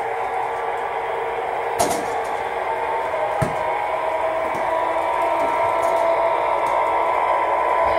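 HO-scale model diesel locomotives' DCC sound decoder playing a diesel engine sound through the small onboard speaker, running steadily and growing slightly louder about halfway through, with a few light clicks.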